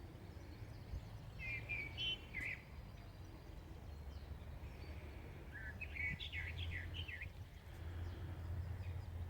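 A songbird singing two short phrases of quick chirping notes, the first about a second and a half in and the second around six seconds in, over a steady low background rumble.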